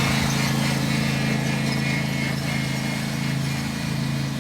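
Lawn mower engine running steadily, getting slightly quieter toward the end.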